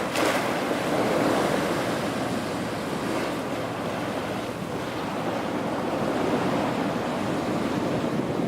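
Steady wind noise buffeting the camera's microphone, with a brief knock right at the start.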